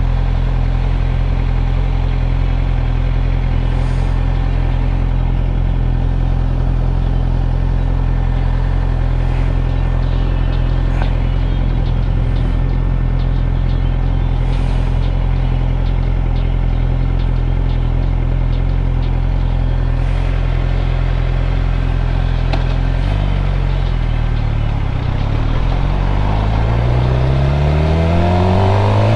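Suzuki GSX-R600 inline-four engine idling steadily while stopped at a light. About 23 seconds in its pitch shifts, and near the end the revs climb as the bike pulls away.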